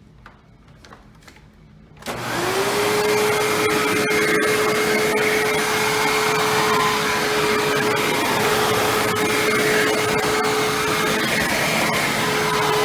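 Hoover WindTunnel self-propelled bagless upright vacuum switched on about two seconds in after a few faint clicks, its motor spinning up with a brief rising whine and then running steadily at a constant pitch.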